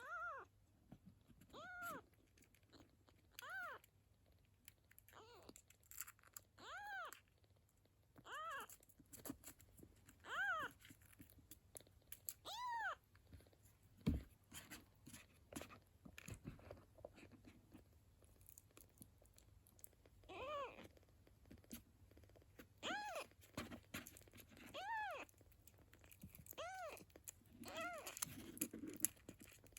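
Kitten mewing over and over, a dozen or so short high cries that rise and fall in pitch, one every one and a half to two seconds. The cries pause for several seconds in the middle, where there is a single sharp knock.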